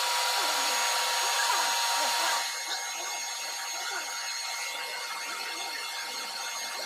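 A power tool's electric motor running steadily with a high whine, over a hissing noise that eases off a little more than two seconds in.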